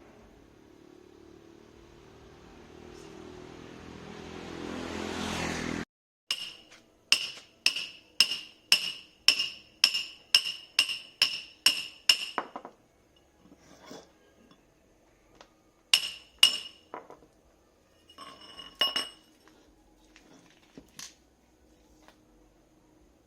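A rising hiss with a low hum swells for about six seconds and cuts off abruptly. Then a run of about a dozen ringing metal-on-metal taps comes at roughly three a second, like light hammer blows on motor parts, followed by a few scattered taps.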